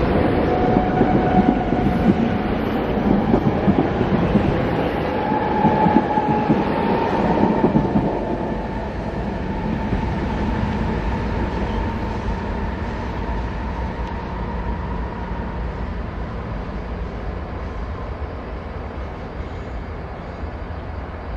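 SEPTA electric commuter train running by on the rails: loud rumbling with a faint steady whine for about the first eight seconds, then fading steadily as it moves away.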